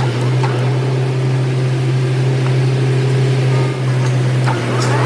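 Lathe running with a steady, loud motor hum, with a few light clicks from the work. Near the end a whine starts rising in pitch as the machine speeds up.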